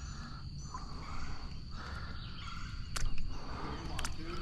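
Outdoor ambience with a steady high-pitched insect buzz over a low rumble of noise, broken by two sharp clicks about three and four seconds in.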